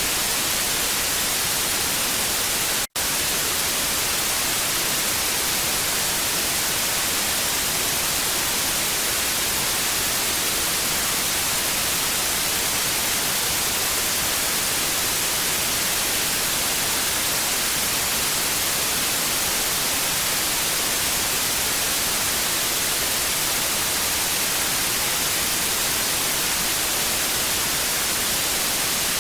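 Steady TV static hiss, strongest in the high end, broken by a split-second dropout to silence about three seconds in.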